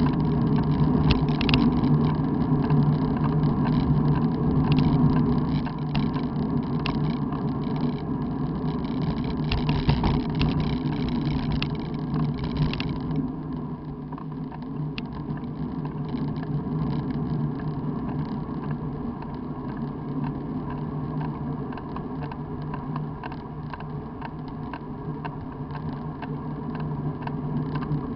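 Steady road noise of riding on pavement, a low rumble with many small rattling clicks, a little quieter from about halfway on.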